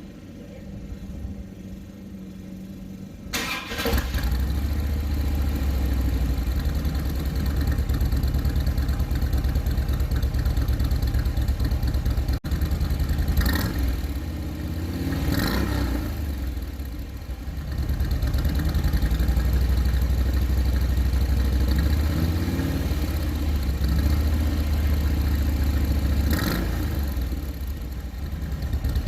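2008 Harley-Davidson Street Glide's V-twin engine, heard through stock slip-on mufflers, starting a few seconds in and then running steadily, with a few brief louder flares. Partway through there is a sudden cut to another take.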